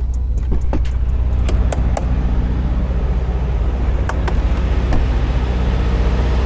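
Semi truck's diesel engine running steadily with a low hum, with a few light clicks in the first two seconds and again around four seconds in.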